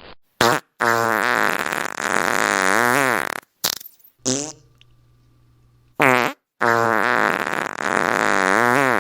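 A string of fart sounds: several short blasts and two long, drawn-out ones whose buzzing pitch wobbles up and down, with a brief lull midway.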